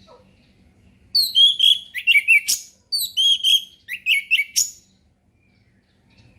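Orange-headed thrush singing its 'ngeplong' song: two quick phrases of bright whistled notes and downward slurs, each ending in a sharp note, with a short pause between them.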